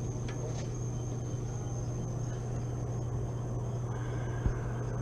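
Steady low mechanical hum with no change in pitch, broken by a single short knock about four and a half seconds in.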